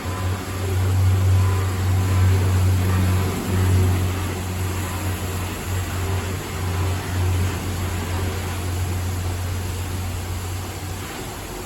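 Ryko Voyager car wash brushes spinning against the car's body, heard from inside the cabin: a heavy low rumble over a steady hiss, easing near the end.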